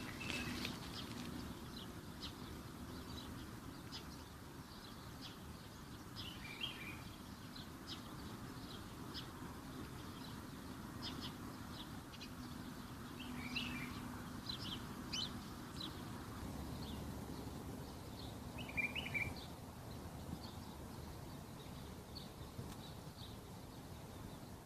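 Birds chirping with many short scattered calls, one call repeating about every six seconds, over a faint low steady hum.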